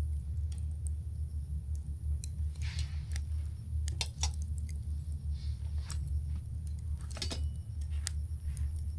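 Campfire crackling: scattered sharp pops and snaps from the burning wood, with two short hissing crackles about three and seven seconds in, over a steady low rumble.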